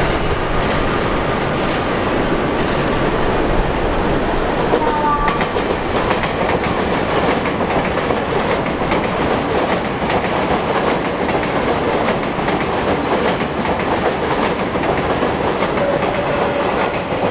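Sotetsu electric commuter train passing at close range: a steady rumble of wheels on rail, with rapid clickety-clack of the wheels over rail joints from about five seconds in.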